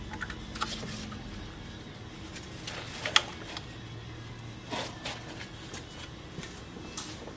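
Scattered light clicks and rustles of handling, the sharpest click about three seconds in, over a faint low hum.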